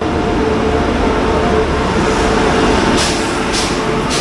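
Train running on the rails: a loud steady rumble with a held hum, and wheels clacking over rail joints from about three seconds in.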